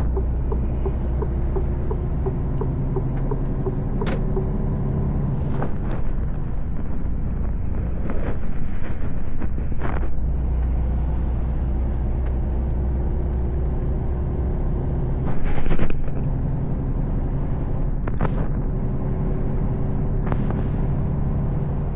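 Mercedes Actros L truck heard from inside the cab: a steady diesel engine drone and road rumble, with a few brief hisses and a short louder burst of noise about fifteen seconds in.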